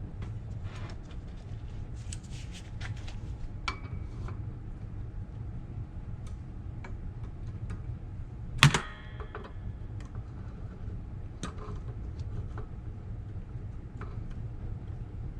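Hand tools clicking and tapping on the steel parts of a car's brake backing plate assembly while its springs and pins are being worked loose, with one loud metallic clank that rings briefly a little past halfway.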